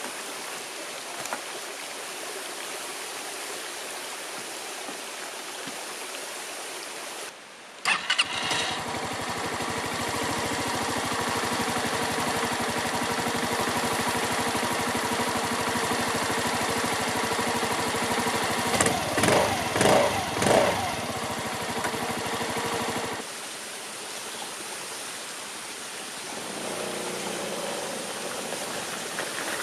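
Small motor scooter engine starting about eight seconds in and idling steadily, with a few short revs about two-thirds of the way through, then cutting off suddenly. Before it starts, a steady rushing hiss of running water.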